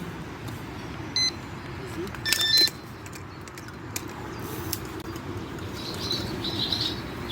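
Electronic beeps from a carp-fishing bite alarm: a short one about a second in, then a louder, longer one a second later. A steady low hum runs underneath, and birds begin chirping near the end.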